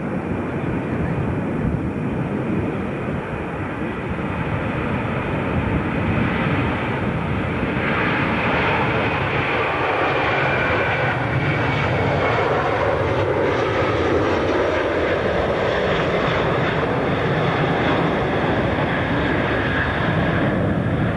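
Airliner's engines running loud and steady as the aircraft passes close by, a dense rush with a high whine that slowly falls in pitch; the rush grows fuller about a third of the way in.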